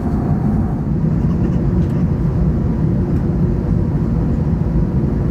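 Steady in-flight cabin noise of an Airbus A380 airliner: an even, low rumble of engines and airflow, with no change in level.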